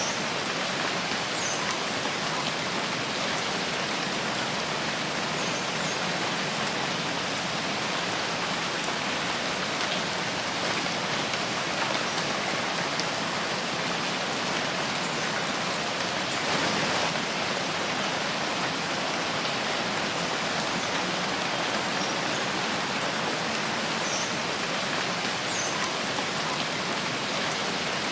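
Steady rain falling through forest, an even patter of drops on leaves and ground, swelling slightly around the middle.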